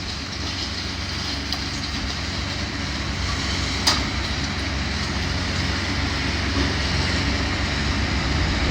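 Heavy demolition machinery running steadily with wind buffeting the microphone, slowly getting louder, and one sharp knock about four seconds in.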